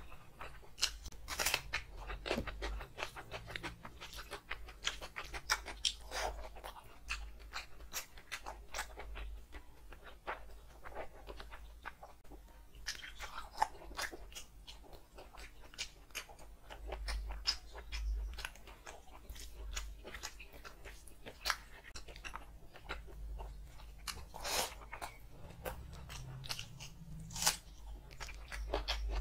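Close-miked eating: a person chewing mouthfuls of curry and rice eaten by hand, with frequent irregular crunches and clicks.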